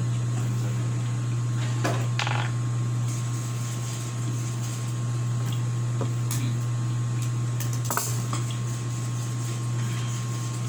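A steady low hum with scattered light clicks and clinks.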